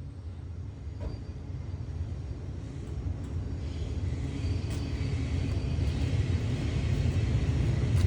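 Hyundai Elantra exhaust rumbling under throttle, with its catalytic converters freshly replaced, growing steadily louder.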